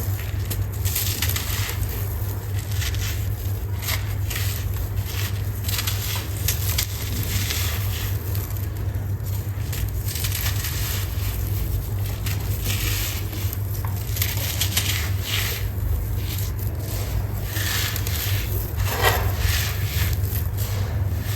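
Dry sand clumps crumbling: a continuous stream of irregular crackles and grainy crunching, over a steady low hum.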